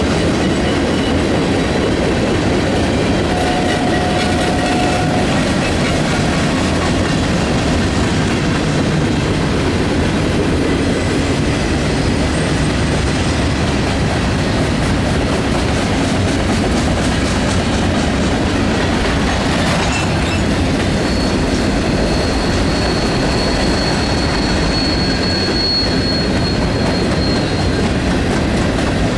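Train cars rolling past on steel rails, with a steady rumble of wheels and track. A short wheel squeal comes a few seconds in, and a longer high-pitched squeal comes past the middle.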